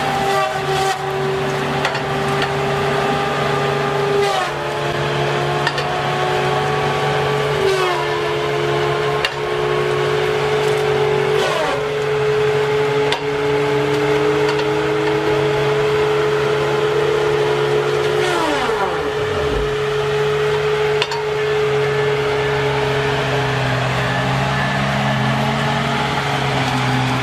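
A machine's engine running steadily, its pitch dropping suddenly several times, once sliding right down low.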